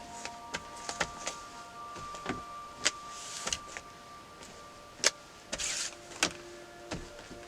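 Scattered irregular clicks and taps of pens and stationery on a desk, with a few brief paper rustles, over soft held tones of background music.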